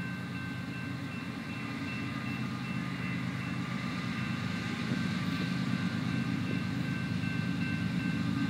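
Low drone of an approaching coal train's diesel locomotives, growing steadily louder, with a grade-crossing warning bell ringing high and steady above it.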